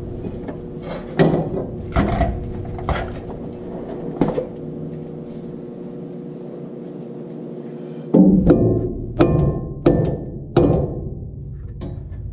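Irregular hammer blows on a steel leaf-spring hanger under a truck frame, trying to knock the old hanger loose. There are several strikes, a pause, then a quicker run of blows in the second half.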